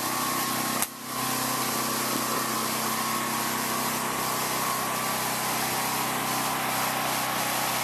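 A small engine running steadily with an even hum, with a brief knock about a second in.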